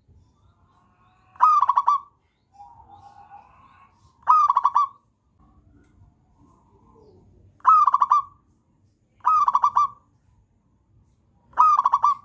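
Zebra dove (perkutut) singing: five short, rapid stuttering coos, each about half a second, repeated every two to three seconds, with fainter calls between them.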